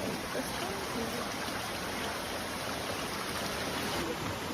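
A small forest stream, its water running steadily.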